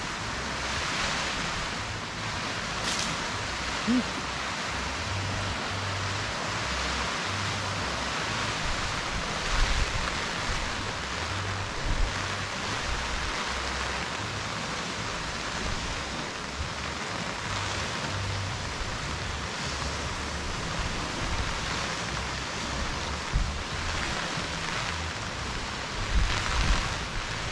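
Heavy, wind-driven rain falling on a tent's fabric and the ground as a steady hiss, with a low uneven wind rumble on the microphone.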